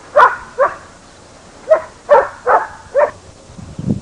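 A dog barking: six short barks, two close together at the start, then four more in quick succession from a little under two seconds in.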